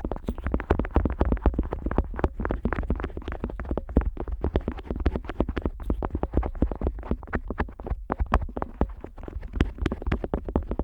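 Otoscope rubbing and tapping on the ear of a Neumann KU100 dummy-head microphone, heard right at the ear: a dense, irregular run of scratchy clicks and soft thumps with a low rumble underneath.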